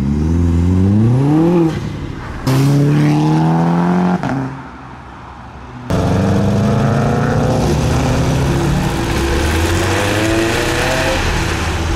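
Modified car engine revving hard as the car accelerates away, its pitch climbing over the first two seconds and then held high. It cuts off abruptly twice; after a quieter stretch in the middle it comes back loud and steady, rising slightly near the end.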